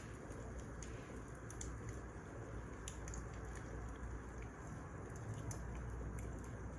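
Wood fire crackling: irregular sharp pops and snaps of burning firewood over a steady low rumble of the flames.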